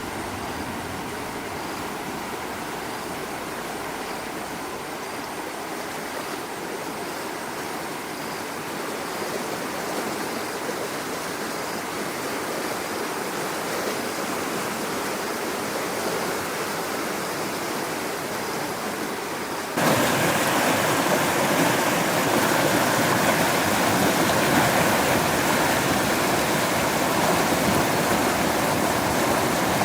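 Steady rushing water, which gets suddenly louder about twenty seconds in.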